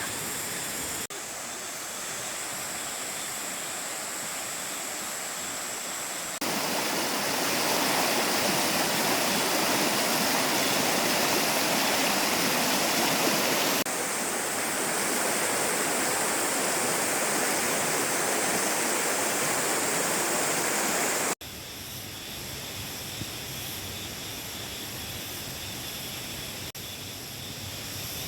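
Mountain valley stream water rushing, a steady noise that jumps in level at several abrupt cuts and is loudest through the middle.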